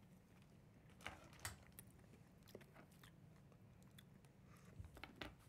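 Faint chewing and biting of thin dark chocolate with crunchy peppermint sugar crystals, with a few soft crunches about a second in and again near the end, over quiet room tone.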